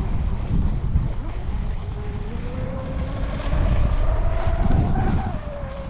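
Brushless motor of a Pro Boat BlackJack 24 V2 RC catamaran whining as the boat runs at speed out on the water. Its pitch climbs from about two seconds in and eases down near the end, under heavy wind buffeting on the microphone.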